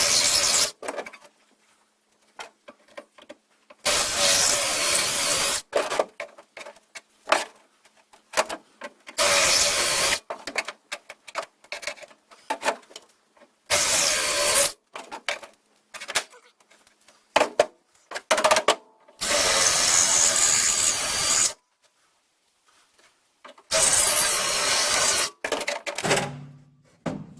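Electric drill with a spot weld cutter bit drilling through the spot welds of sheet-steel seat pans. It runs in about six short bursts of one to two seconds each, with small clicks and taps between them.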